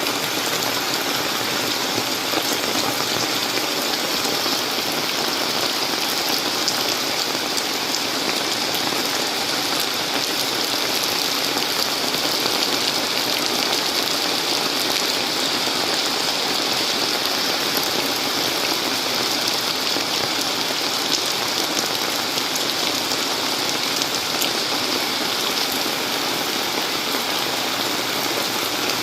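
Heavy tropical rain pouring down steadily, a dense even hiss of drops hitting the ground and surfaces.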